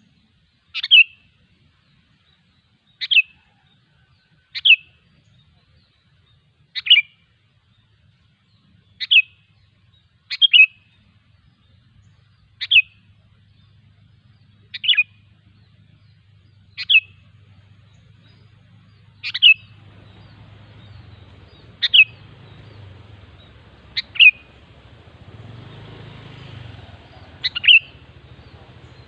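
Sooty-headed bulbul (kutilang) giving short, sharp calls about every two seconds, a few of them doubled. A low hum and faint background noise come up in the second half.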